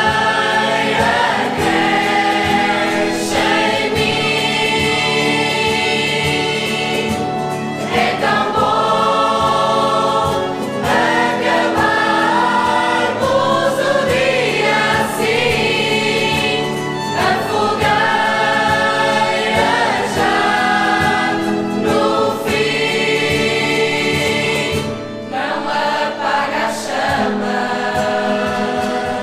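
Music with a choir singing, in the style of gospel or church music.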